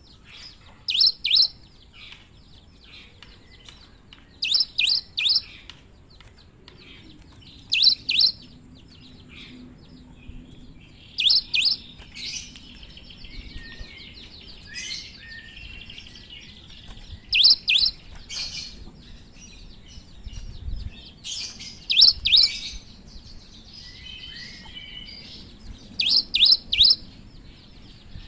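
Cinereous tit (gelatik batu) singing: short phrases of two to four sharp, high notes repeated about every three to four seconds, with softer twittering in between.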